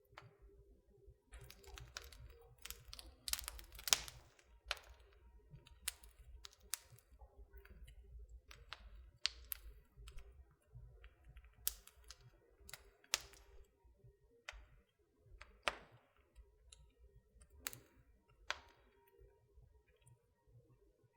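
Wood fire in a fireplace crackling: irregular sharp pops and snaps at uneven intervals, the loudest about four seconds in, over a faint low rumble.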